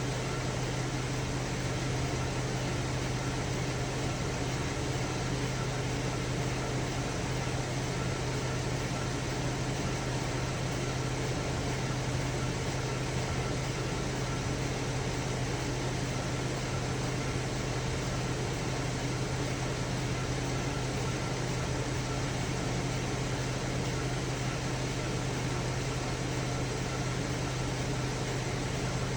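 2010 Chevy Traverse's 3.6-litre V6 idling with a steady hum. The engine has logged misfires on cylinders 1, 3 and 5 (codes P0301, P0303, P0305).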